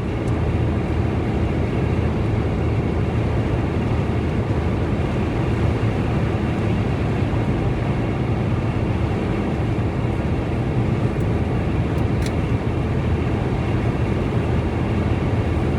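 Steady road and engine noise of a Toyota Land Cruiser driving at highway speed, heard inside the cabin.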